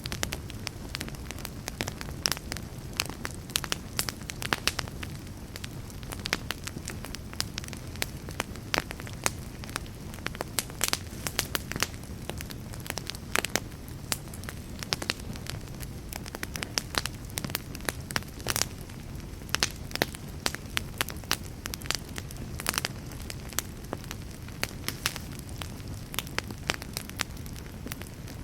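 Wood fire burning in a fireplace: a steady low rumble of flame with frequent irregular sharp crackles and pops from the burning logs.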